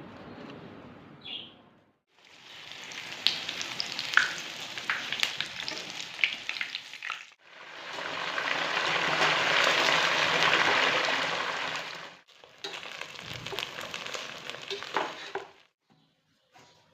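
Food frying in hot oil, sizzling with scattered crackles and pops, in several short clips cut together; in the middle clip the sizzle swells and fades with fewer pops.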